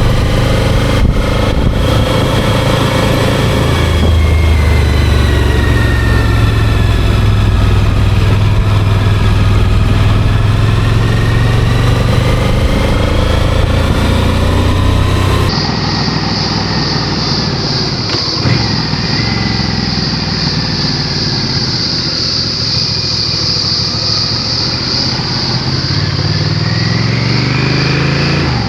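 Motorcycle engine heard from on board while riding twisty roads, its pitch rising and falling as the rider accelerates and eases off through the bends. About halfway through the sound changes abruptly: the engine becomes quieter under a steady high wind hiss, then rises in pitch again near the end.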